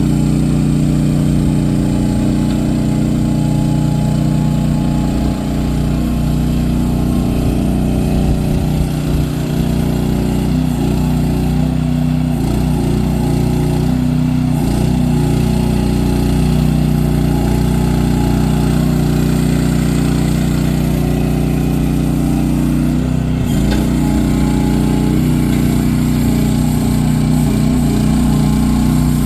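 Engine of a mini ride-on skid steer loader running steadily, with small shifts in its note about a third of the way in and again near the end.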